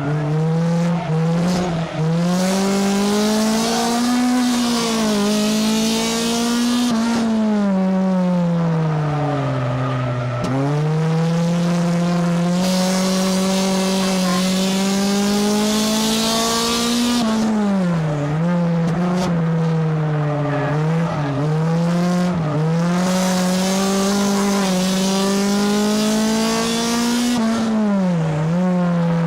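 Race car engine heard from inside the car at speed, its pitch rising and falling over and over as it lapses between throttle and lift, with sharp dips every several seconds. Several-second stretches of loud hiss come and go over it, likely tyre and wind noise.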